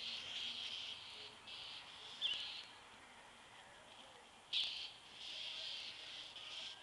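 A bird calling twice, two short sharp calls a little over two seconds apart, over a steady high buzzing that comes and goes in stretches.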